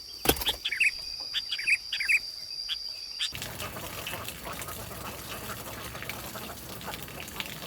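Short chirping bird calls over a steady high-pitched insect drone. About three seconds in, the sound changes abruptly to a denser background of rustling and small clicks.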